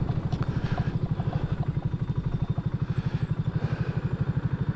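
2023 BSA Gold Star's 652 cc single-cylinder engine running at low revs while the bike is ridden slowly through town, its exhaust beat a steady, rapid pulse. There is a short click about a third of a second in.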